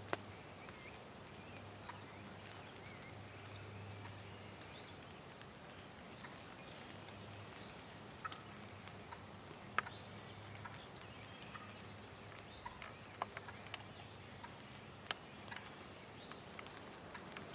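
Faint outdoor quiet with a steady low hum, a few faint bird chirps and scattered light clicks, more of them in the second half.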